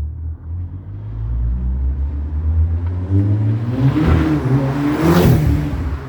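Car exhaust with an Etuners downpipe, Joombra resonator and Deikin muffler on 63 mm piping throughout, rumbling low and then revving up. Its pitch climbs and it grows loudest about five seconds in before falling back.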